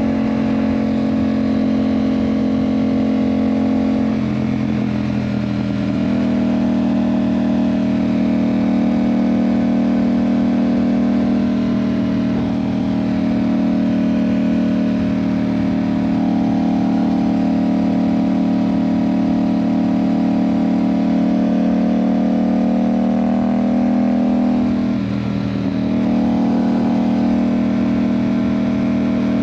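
Yamaha MT-07 parallel-twin engine through an IXIL aftermarket exhaust, running under way at a steady pace. The note breaks and shifts briefly about four seconds in and again near the end, with a short dip in loudness at the second break.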